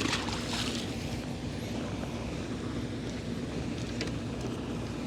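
Steady hum of a boat motor, with wind on the microphone. A short hiss in the first second, and a faint click about four seconds in.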